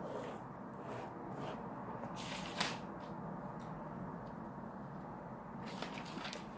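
Eating sounds from a stuffed cucumber boat: a few short, crisp crunches and rustles, the loudest about two and a half seconds in, over a steady background hiss.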